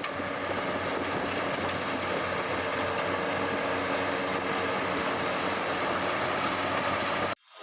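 Steady mechanical drone, an even noise with several steady humming tones through it, cutting off suddenly near the end.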